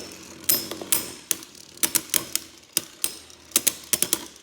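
Two spinning Beyblade Burst tops clashing in a stadium: about a dozen sharp, irregular clacks with a short high ring as the attacker strikes the top spinning in the center.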